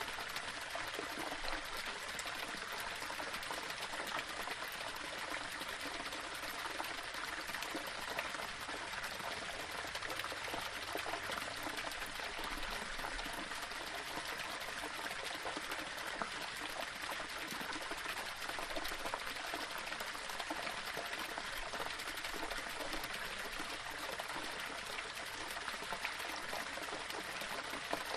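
Small waterfall splashing and trickling over stones: a steady, even rush of running water.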